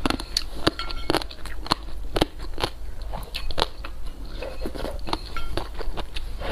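A person eating close to the microphone: chewing and biting, with many sharp, wet mouth clicks several times a second at an uneven pace.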